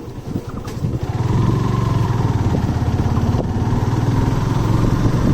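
Motorcycle engine running while riding. Its sound builds over the first second, then holds steady.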